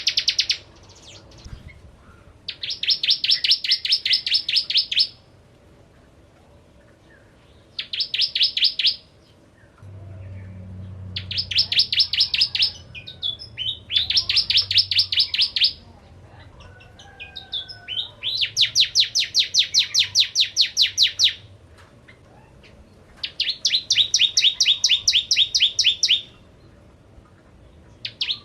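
Bar-winged prinia calling: a rapid trill of sharp, evenly repeated chip notes, given in about six bursts of one to three seconds each with short pauses between.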